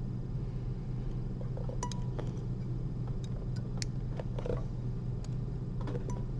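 Steady low room hum with a few faint, sharp clicks of metal surgical instruments, the needle holder and forceps, handled while suturing a patch.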